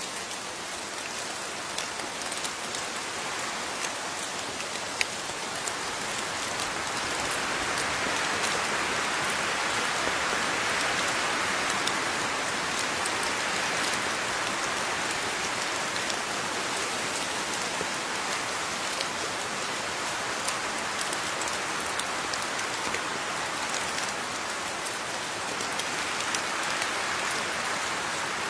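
Steady rain falling on a surface, with scattered individual drops ticking. It swells a little louder about a quarter of the way in and stays even after.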